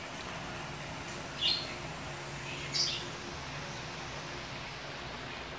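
A bird gives two short, high chirps, about a second apart, over a steady background hiss with a faint low hum.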